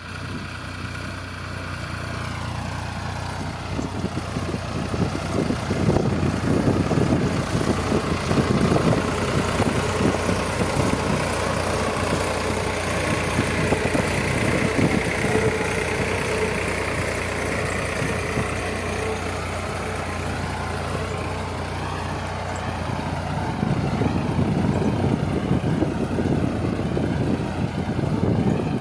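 Tractor engine running steadily, with rougher, louder stretches from about four seconds in and again near the end.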